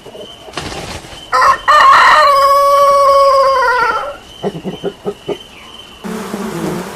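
Rooster crowing once, a long held crow of about three seconds that drops in pitch at the end, followed by a few short clucks. Near the end the sound changes to a steady low buzzing.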